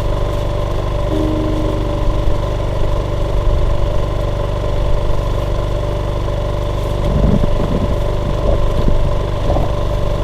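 An engine running steadily at a constant speed, with brief musical notes about a second in.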